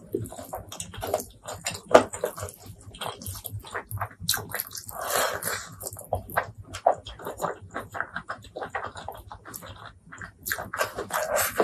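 Close-miked chewing and wet mouth sounds of someone eating rice with spicy fried chicken wing curry by hand: a dense run of sticky smacks and clicks, with a longer wet noise about five seconds in.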